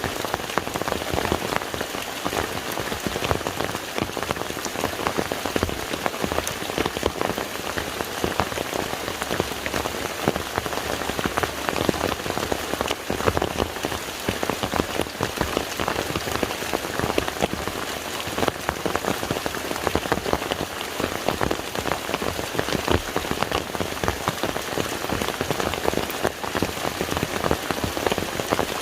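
Steady rain falling onto a lake's surface: a dense, even patter of countless drops.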